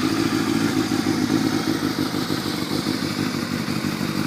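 2002 Yamaha YZF600R's carbureted 600cc inline-four engine running at a steady idle through a carbon-fiber Scorpion exhaust.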